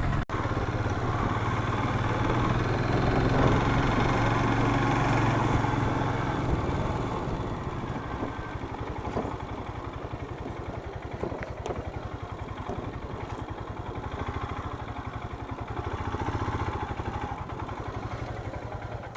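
Motorcycle engine running with a steady, even pulse, louder for the first few seconds and then easing to a lower, quieter run.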